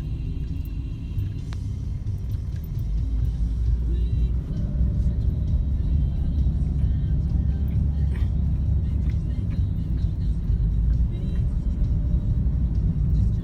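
Steady low rumble that grows stronger about three seconds in, with faint background music.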